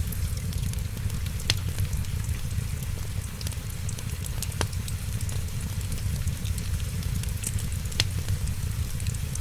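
Wood fire crackling, with a few sharp pops standing out about three times, over a steady low rumble and soft hiss.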